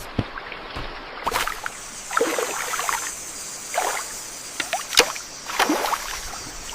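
Water splashing and sloshing in irregular strokes over a steady rushing hiss.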